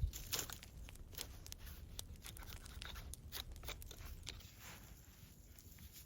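Irregular crunching and scraping, short sharp cracks coming quickly at first and thinning out after about four seconds.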